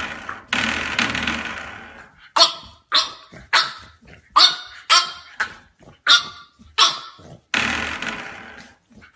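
French bulldog puppy barking: a run of short, sharp barks about two a second, with a longer growl at the start and another near the end.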